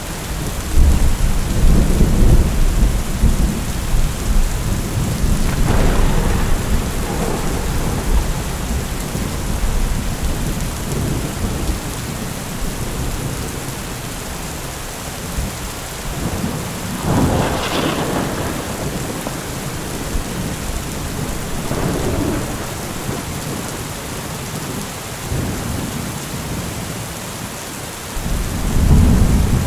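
Heavy rain falling steadily in a thunderstorm, with rolling thunder rumbling deep and heavy in the first few seconds and again near the end, and a sharper thunder crack about halfway through.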